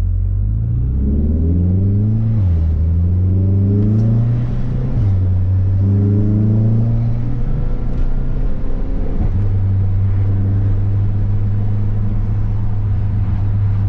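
Car engine under acceleration, its pitch rising and dropping sharply at two gear changes, then holding steady at cruise.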